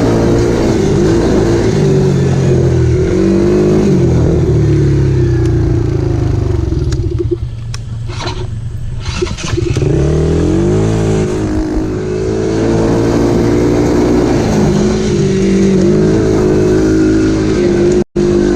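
Dirt bike engine running under riding, its pitch rising and falling with the throttle. It eases off to a quieter lull about halfway through, then picks back up, with a split-second dropout near the end.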